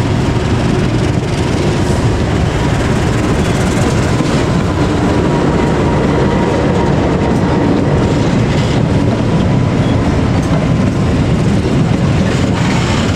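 Diesel-electric locomotive of an Indonesian (KAI) passenger train passing close by, its engine and wheels on the rails making a loud, steady rumble, followed by the passenger coaches rolling past.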